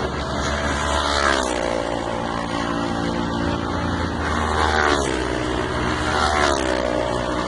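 Honda CBR500R parallel-twin race motorcycles running at high revs, the engine pitch dropping sharply three times as bikes go by or brake.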